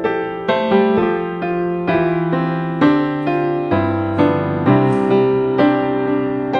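Background piano music: slow notes and chords, each struck and left to fade, about two a second.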